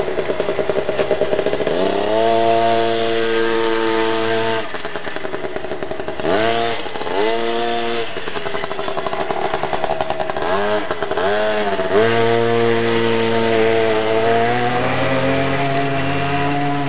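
Mini motocross (minicross) bike engine revving hard and easing off. It climbs and holds high for about two seconds, drops, then gives several quick rises and falls in the middle, and holds high again for a few seconds near the end.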